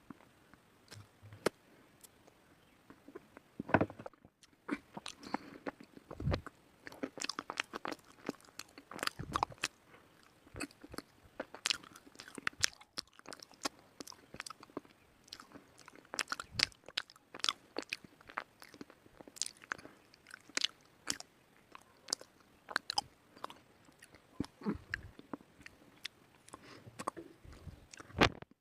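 A person biting and chewing white slate (baked clay slate pencil), an irregular run of dry, sharp crunches and crackles with a short pause about four seconds in.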